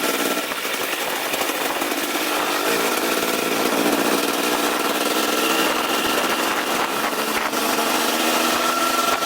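Dirt bike's single-cylinder four-stroke engine, a KTM 250 SX-F, running under power with a buzzy note whose pitch rises and falls as the throttle changes.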